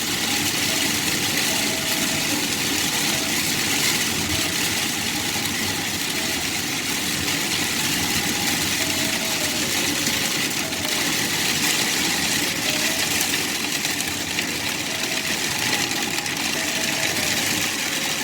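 Heavy rain hitting a car's windshield and roof, a steady hiss heard from inside the car, with a low rumble underneath.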